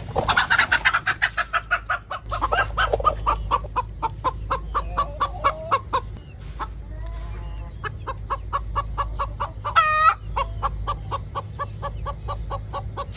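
Hen clucking in a rapid run of short clucks, about four to five a second, with a brief pause around six seconds in and one longer, louder squawk near ten seconds.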